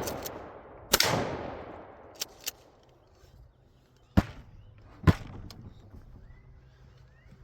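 Shotgun shot about a second in, its report fading out slowly over the next couple of seconds. Two light clicks follow, then two shorter, sharp cracks about a second apart.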